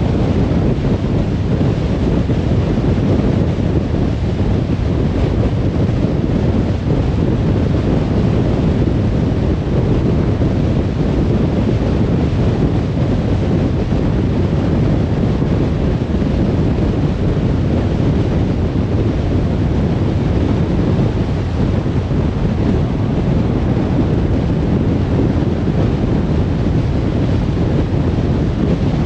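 Steady rumble of a car driving at speed: tyre and wind noise, strongest in the low end, with no change throughout.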